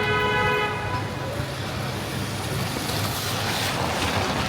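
A vehicle horn held for a second or so, several steady tones together, cutting off about a second in, over the steady rumble of city traffic. A louder hiss swells and fades near the end.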